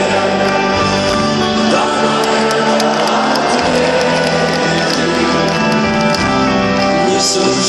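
Live rock band playing an instrumental passage between sung lines, with guitar over sustained chords, loud and continuous.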